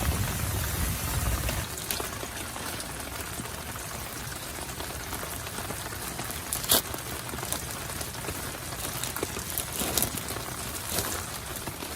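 Heavy rain falling steadily on a tent, with a low rumble that fades out in the first second or two and two sharper drop hits, one past the middle and one near the end.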